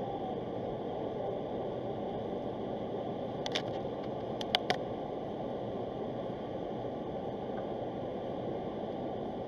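Steady road and engine noise inside a moving vehicle's cabin, a low rumble with no change in pace. About halfway through there are three short, sharp clicks, the second and third close together.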